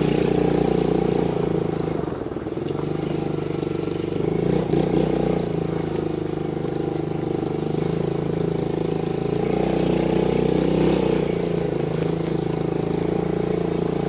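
Small 90cc gas ATV engine running steadily while the four-wheeler is ridden, with a brief dip in level about two seconds in.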